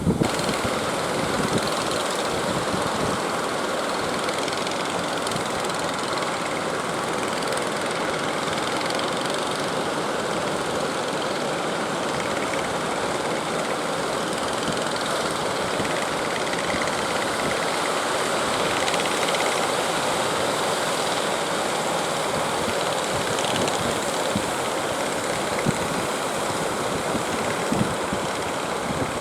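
Fishing boat engine running steadily at a constant level.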